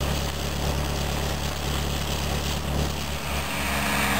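Farm tractor engine running steadily while the tractor is moving, a low even hum under a constant rushing noise.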